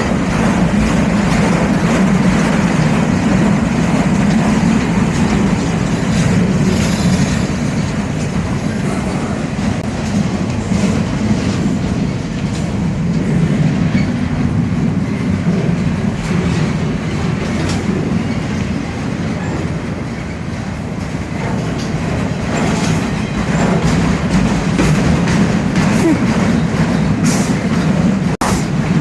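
Freight train rolling past: a steady rumble of the cars with wheels clicking over rail joints, the clicks sharper and more frequent in the last few seconds.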